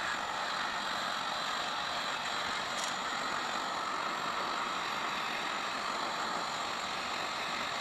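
Electric heat gun running steadily: an even blower hiss with no change in pitch.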